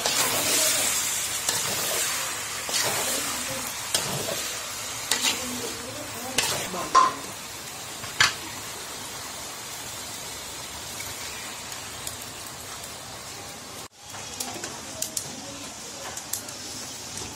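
Duck meat and spices sizzling in an aluminium pot while a spatula stirs and scrapes through it. The spatula clinks sharply against the pot several times in the first half. After a sudden break near the end, the sizzle goes on more quietly with small crackles.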